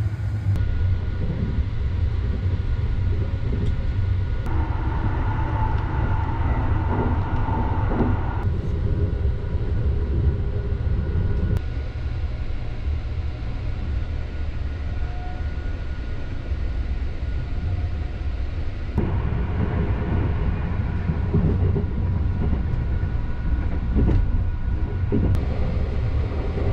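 Sunrise Seto sleeper train, a 285-series electric train, running along the line, heard from inside a compartment as a steady low rumble of wheels on rail. The noise shifts abruptly a few times where separate recordings are joined.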